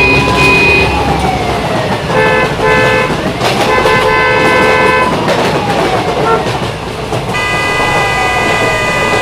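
Train horn tooting: two short toots, then a longer one, then a long blast near the end, over a siren wailing slowly up and down.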